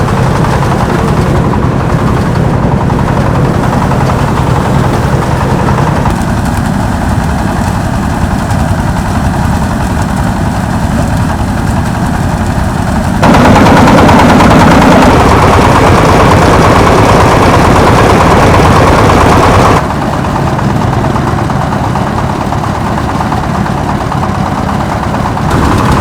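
An engine running loudly and steadily with a rough, rapid chug. The tone and loudness change abruptly twice, and the middle stretch is louder.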